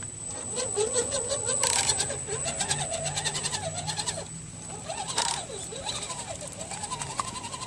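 Redcat Gen7 RC crawler's electric motor and geared drivetrain whining, the pitch rising and falling as the throttle is worked, over a steady high-pitched whine. Two bursts of rapid clicking come about two and five seconds in.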